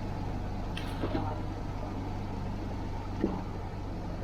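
Fishing boat's engine running steadily with a low drone, heard on board, with a few brief knocks about a second in and again a little past three seconds.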